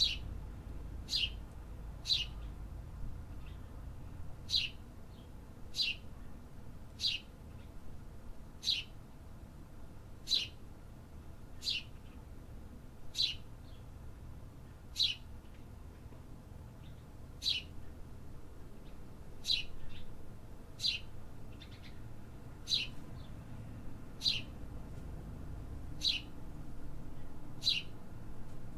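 A bird repeating a single short, sharp chirp that drops in pitch, about eighteen times at uneven intervals of one to two and a half seconds, over a low steady rumble.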